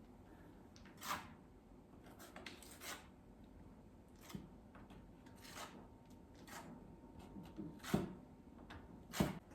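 Faint, irregular scraping strokes of a wide trowel spreading joint compound (mud) across a wall, about seven separate swipes with the firmest near the end.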